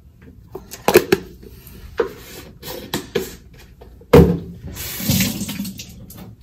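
Supplement containers and a scoop being handled: a series of clicks and knocks, the loudest about four seconds in, followed by about a second of a pouring sound.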